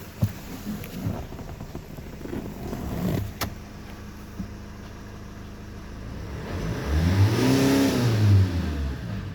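Great Wall Cannon's 2.0-litre four-cylinder turbodiesel engine running at idle, revved once about seven seconds in: the pitch rises and then falls back to idle. There is a sharp click a few seconds before the rev.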